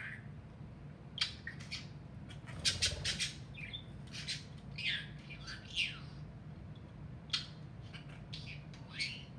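Budgerigars chirping and squawking in short, irregular calls, over a steady low hum.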